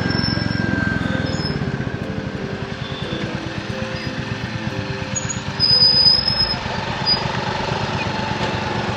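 Motorcycle engine running steadily on the move, with a regular low pulsing. About six seconds in there is a brief, louder high-pitched sound.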